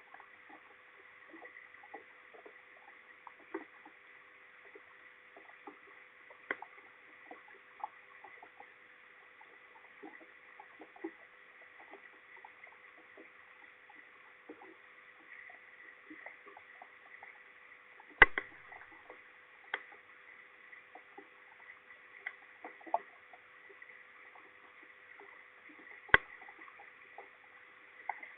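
Rain dripping and pattering as a scatter of irregular drops and ticks, with a few sharper knocks, the loudest about 18 seconds in and again about 26 seconds in. A faint steady electronic whine runs underneath.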